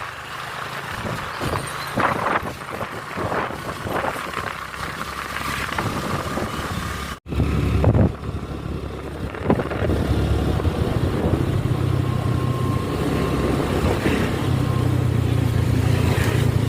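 A road vehicle on the move: steady engine and road noise. The sound cuts out for an instant about seven seconds in, and after that the low rumble is heavier.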